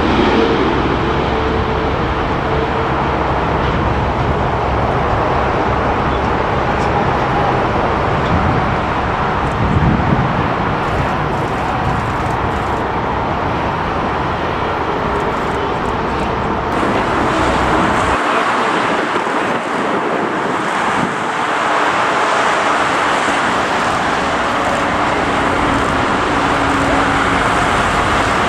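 Strong storm wind roaring and buffeting the microphone, a continuous loud noise with a heavy fluctuating rumble that drops away about two-thirds of the way through.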